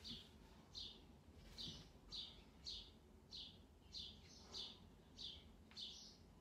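Faint bird chirping: a string of short, high chirps repeated about every half second to second, around ten in all.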